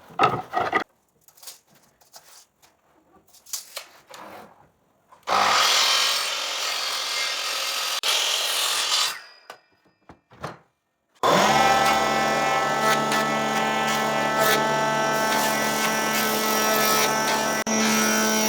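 Woodworking power tools at work. A few scattered knocks come first, then about four seconds of noisy cutting or sanding. From a little past halfway a power tool's motor runs steadily with a whining hum.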